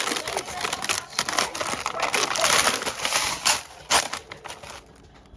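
Plastic and cardboard grocery packaging crinkling and rattling as it is handled, with quick clicks and a couple of sharper knocks about four seconds in; it quiets down near the end.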